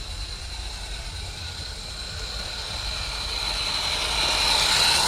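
Small live-steam Roundhouse Lady Anne locomotive running, its hissing steam exhaust growing louder toward the end as it draws near, over a steady low rumble.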